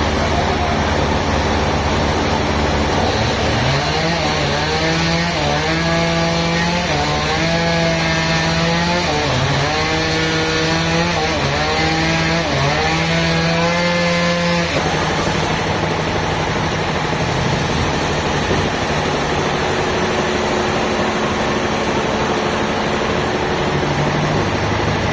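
Engine-driven saw running loudly and steadily while cutting timber. A wavering pitched tone rides over it from about 4 seconds in and stops abruptly around 15 seconds in.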